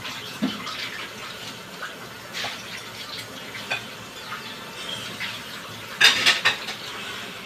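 Vegetables frying in a wok over a gas burner: a steady sizzle with scattered pops. There is a brief louder clatter about six seconds in.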